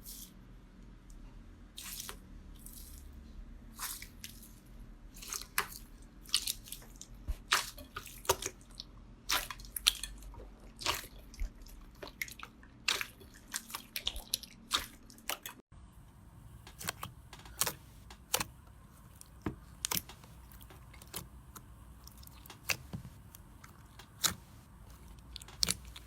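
Slime being squeezed and pressed by hand, giving irregular sharp wet clicks and pops. There is a brief break about fifteen seconds in, after which the pops come more sparsely.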